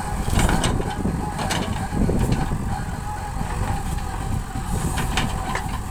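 JCB 3DX Super backhoe loader's diesel engine running steadily, with several sharp knocks and clanks over it.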